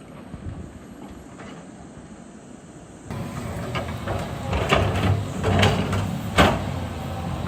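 Heavy earthmoving machine's diesel engine running, with metallic clanks and scraping several times. The sound steps up in loudness about three seconds in.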